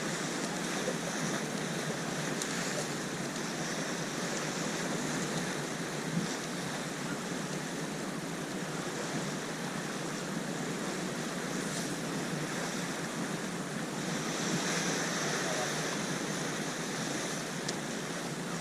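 Steady wash of sea waves with wind, slightly louder for a few seconds near the end.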